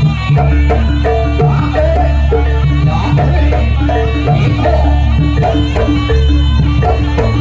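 Traditional Javanese jaranan music played by an ensemble: drum strokes and a short repeating pitched melody over a deep, held bass note.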